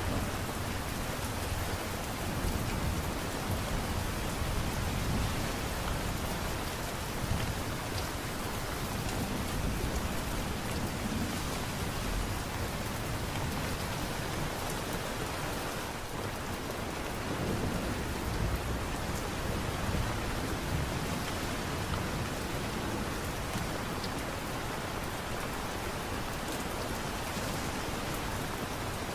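Steady light rain, an even hiss, with low rumbles that swell and fade now and then.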